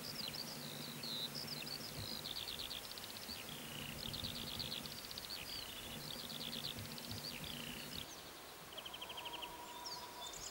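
Songbirds chirping and singing in quick phrases and rapid trills, over a faint low hum. About eight seconds in the background changes and a bird's short, rapid trill repeats.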